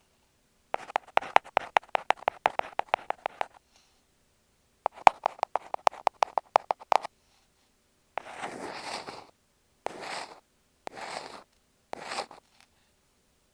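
Ear pick scratching against an earphone microphone. Two runs of quick, close clicking scrapes come first, then four longer scraping strokes about a second apart.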